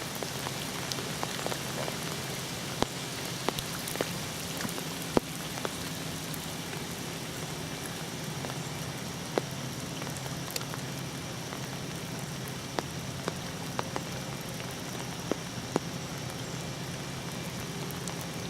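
Steady hurricane rain falling, with scattered sharp taps of single drops striking close by.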